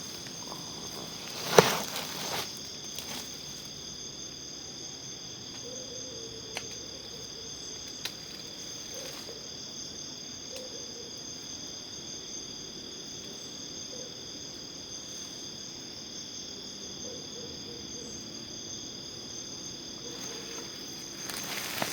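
A chorus of forest insects trilling steadily at several high pitches at once. A sharp knock stands out about one and a half seconds in, and a few fainter clicks follow.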